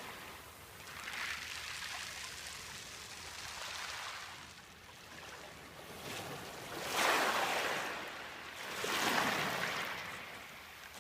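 Ocean surf washing in, a hissing rush that swells and fades in several waves, the largest about seven and nine seconds in.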